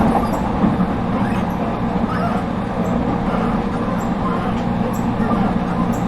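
Interior running noise of an ET127 series electric train: a steady rumble of wheels on rail with faint scattered ticks.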